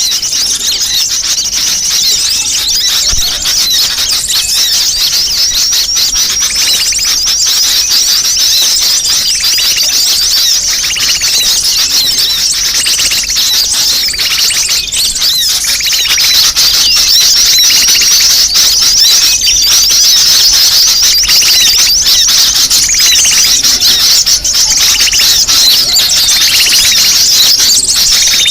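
Many sunbirds calling at once: a dense, unbroken chatter of rapid high-pitched chirps with occasional lower notes, a 'ribut' (noisy flock) lure recording played to draw small birds in.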